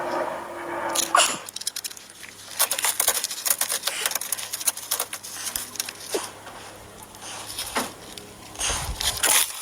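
Irregular crackling and clicking handling noises, with a low thump near the end.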